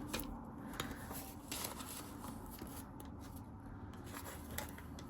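Faint rustling of paper with scattered light ticks and taps: cash and envelopes being handled at a table.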